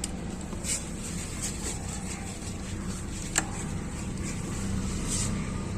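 A steady low background rumble with a few faint clicks and light knocks, the sharpest a little past the middle.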